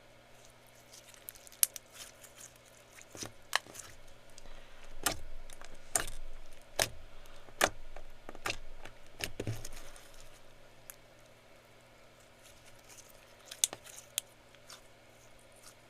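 Clear slime being handled, giving a series of small sharp clicks and pops. The pops come thickest in the first half and thin out to a few near the end.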